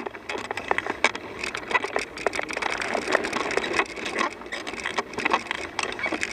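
Bicycle rolling along a gravel trail: a dense, irregular crunching and crackling of tyres over grit and twigs, with rattling clicks.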